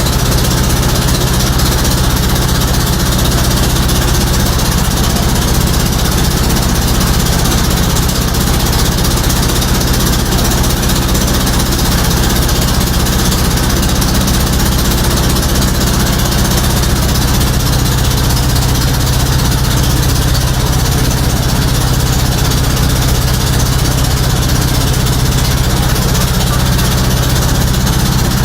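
Motorboat engine running steadily at an even pitch, with a constant hiss over it.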